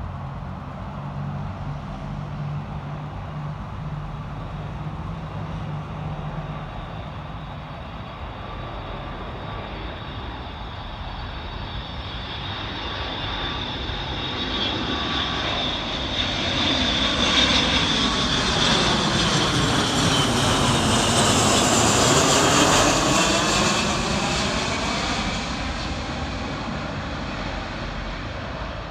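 Boeing KC-135R Stratotanker's four CFM F108 turbofan engines on landing approach, growing louder as the jet nears, passing by loudest about two-thirds of the way through with a high fan whine, then fading.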